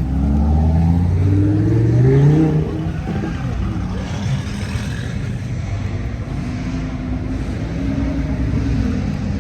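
A car engine accelerating, its note rising steadily in pitch for about two and a half seconds, then easing off into a lower, steadier engine sound.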